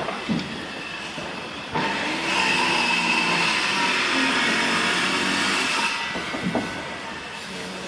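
A power tool runs for about four seconds on wooden boat timber. It starts suddenly about two seconds in and winds down near six seconds, with scattered knocks around it.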